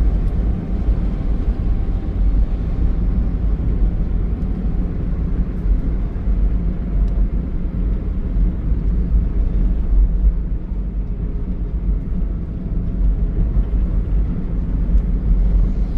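Steady low rumble of road traffic or a vehicle driving along a highway, with no sudden events.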